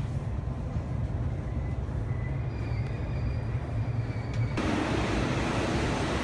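Commuter train heard from inside the car: a low running rumble with a faint high whine as it comes to a stop at the platform. About four and a half seconds in, the doors open and the sound suddenly widens into a steady hiss from the open platform.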